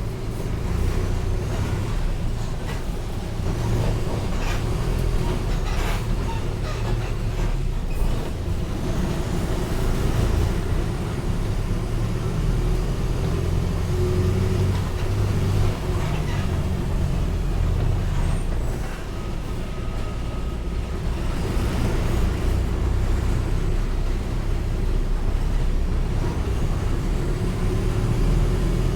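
Mercedes-Benz OF-1722M city bus with its diesel engine running steadily, with a few sharp knocks and rattles along the way.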